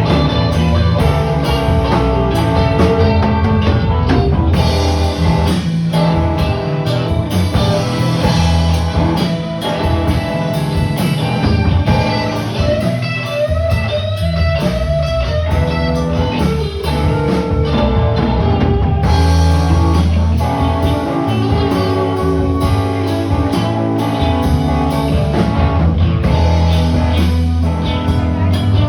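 Band playing blues-rock music, led by guitar over a drum kit.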